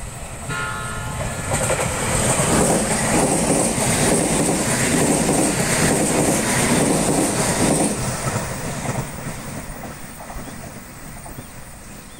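An E721-series and 701-series six-car electric train sounds a short courtesy horn blast about half a second in, lasting about a second. It then passes close by, loud, with its wheels clattering over the rail joints, and fades from about eight seconds in as it draws away.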